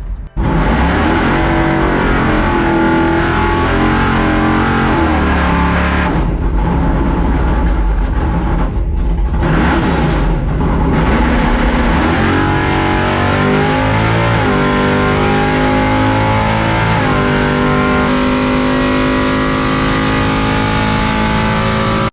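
C10 drag truck's engine running hard on a drag-strip pass, revving and accelerating, its pitch climbing several times in the second half.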